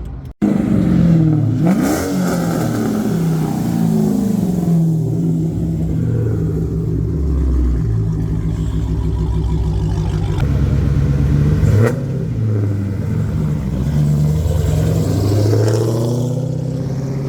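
Vehicle engines running and revving, their pitch stepping and gliding up and down, with two sharp cracks, one about two seconds in and one near twelve seconds.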